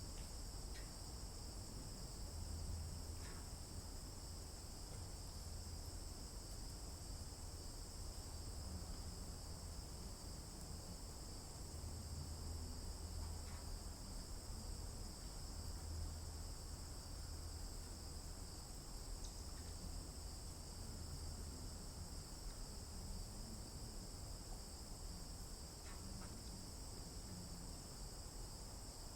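Steady, high-pitched chorus of singing insects that runs unbroken, with a low rumble underneath and a few faint soft ticks.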